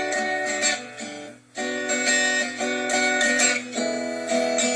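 Guitar chords strummed in a steady rhythm, with a brief break about a second and a half in before the strumming picks up again.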